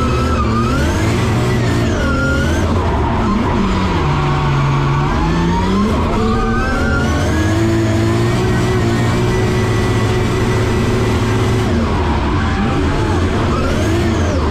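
Drift car's engine heard from inside the cabin under hard driving, revs dipping and climbing back about four to six seconds in, then held high.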